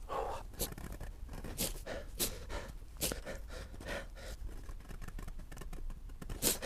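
Sticky-string tyre plug being forced into a tyre's puncture hole with the insertion tool: a run of short, irregular scrapes and creaks, with the man breathing hard from the effort.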